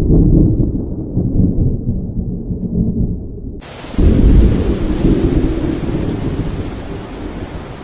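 Thunder rumbling in two long, deep peals, each fading slowly. The second starts about four seconds in, just after a steady hiss of rain comes in.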